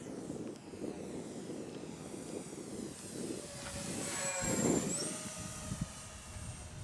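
Twin electric motors and propellers of an E-flite Twin Otter RC plane whining as it passes on its landing approach, growing loudest about four seconds in and then dropping in pitch and fading, over wind rumble on the microphone.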